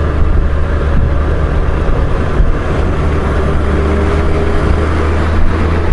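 Honda Gold Wing GL1500's flat-six engine running steadily while riding at road speed, under a continuous rush of wind and road noise.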